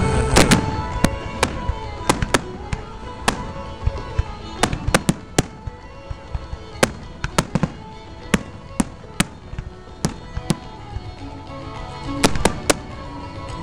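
Fireworks display: many sharp bangs and pops at irregular intervals, some in quick clusters, with music playing underneath.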